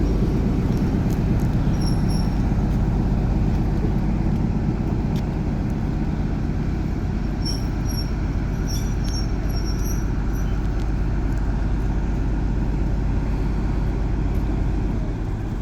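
Class 43 HST train running: a steady diesel rumble with wheel-on-rail noise that eases slightly towards the end, with a few faint high chirps over it.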